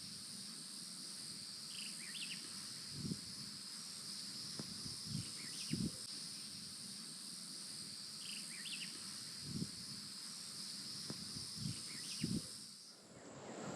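Steady high-pitched insect chorus of woodland crickets, with a bird giving short descending chirps about every three seconds and a few soft low thumps. The insect sound drops away near the end.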